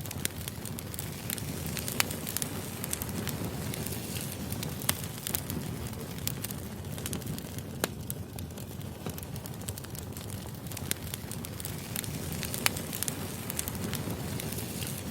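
Burning firewood crackling steadily, with a low rumble under irregular sharp pops and snaps of the logs, a few louder than the rest.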